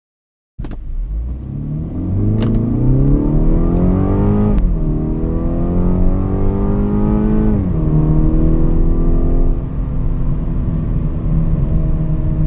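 2018 BMW 430i's 2.0-litre turbocharged four-cylinder at full-throttle acceleration in Sport Plus, heard from inside the cabin. The engine note starts about half a second in and rises steadily. It drops at an upshift about four and a half seconds in, climbs again, drops at a second upshift about three seconds later, then holds and climbs slowly.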